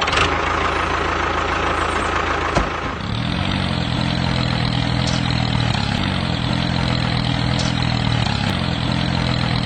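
A motor running steadily with a low hum over a hiss; the hum settles in about three seconds in.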